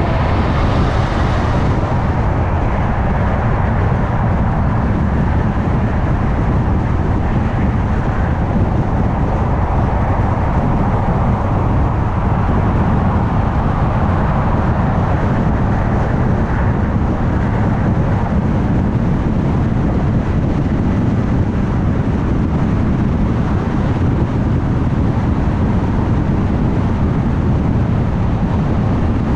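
Car driving at highway speed: a steady rumble of road and tyre noise with engine hum. A brighter hiss fades away in the first second or two.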